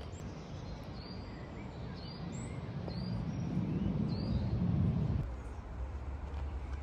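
A small bird calling repeatedly, short high chirps about once a second, over a low rumble that builds and stops suddenly about five seconds in.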